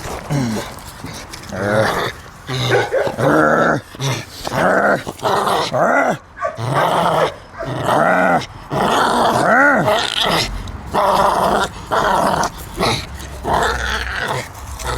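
Small chihuahua-pug mix dog growling in a string of short bursts while tugging a frisbee, the growls of tug-of-war play.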